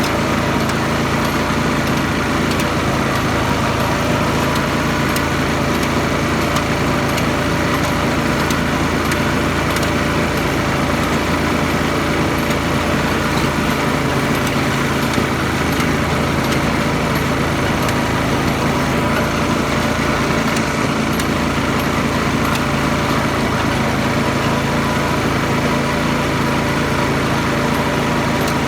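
Garden tractor's small engine running at a steady, unchanging speed.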